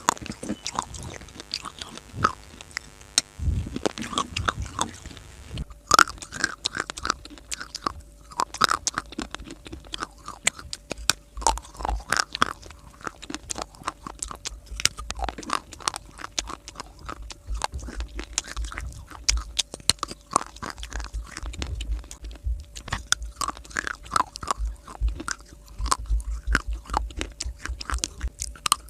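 A person biting and chewing dry clay close to the microphone: continuous crisp crunches and crackles over a steady chewing rhythm, loudest about six seconds in.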